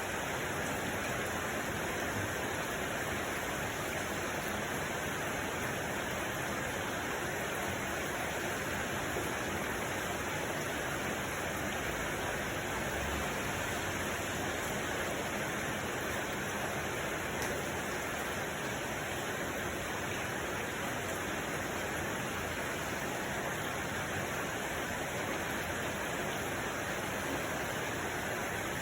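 A steady, unchanging rushing noise with no distinct events, spread from deep to very high pitches, of the kind a relaxation track of water or noise carries.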